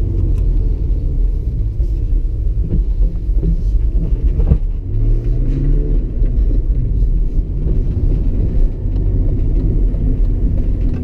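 BMW E46 engine and road rumble heard from inside the cabin as the car is driven, with a knock about four and a half seconds in and then the engine note rising as it revs up.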